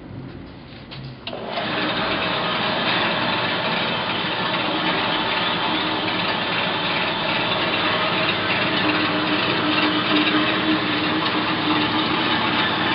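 Acra 7" x 12" horizontal/vertical band saw with a 3/4 hp single-phase motor running, coming in loud about a second in and then holding steady.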